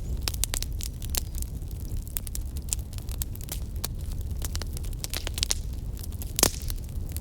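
Wood campfire crackling, with many quick sharp pops and snaps over a steady low rumble. One louder pop comes about six seconds in.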